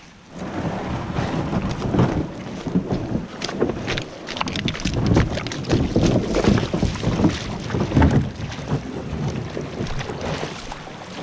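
Water splashing and sloshing with frequent knocks and scrapes as plastic kayaks are launched and pulled through shallow creek water, with wind buffeting the microphone.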